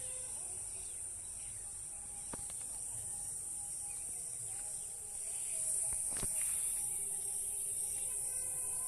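Steady high-pitched drone of insects chirring, swelling a little about halfway through, with a couple of faint clicks.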